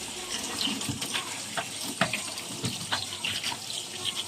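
Tap running into a sink, with frequent clinks and knocks of dishes being washed under it.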